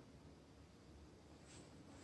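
Near silence: room tone of an empty room.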